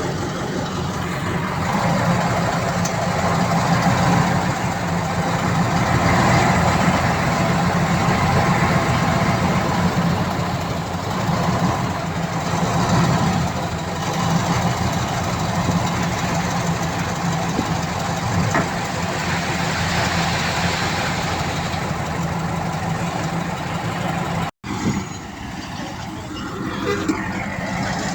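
Diesel engine of heavy earthmoving machinery running steadily under work, with a clattering rumble. A sudden break about three-quarters of the way in, after which the engine sound is quieter.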